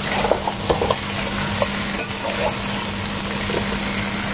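Pork pieces and sliced onions sizzling in a pot while a spoon stirs them, with scattered scrapes and clicks of the spoon against the pot over a steady low hum.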